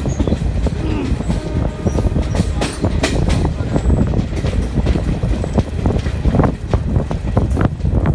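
Passenger train running over a river bridge, heard from on board: a steady heavy rumble of wheels on rail with frequent irregular clanks and knocks.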